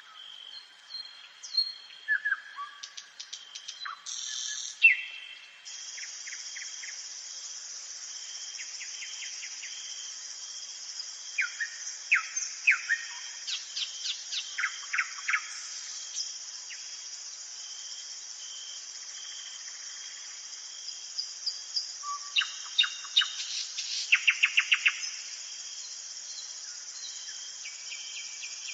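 Nightingale singing in three spells, each made of fast runs of sharp repeated notes and short whistled phrases, with pauses between them. Under it runs a continuous high chirring of insects such as crickets, which comes in abruptly about six seconds in, plus a thin steady high tone.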